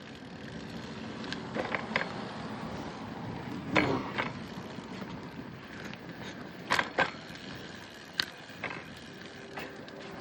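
Bicycle riding along with steady rolling and wind noise, broken by several sharp knocks and rattles from bumps. The loudest come about four seconds in and again around seven seconds.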